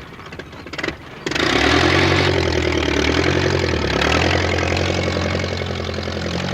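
Stuck tractor's engine revving hard. It starts suddenly about a second in, and its pitch rises and falls as it strains without getting free.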